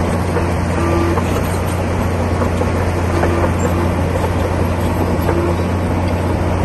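Komatsu D60P bulldozer's diesel engine running steadily at work, a constant low drone.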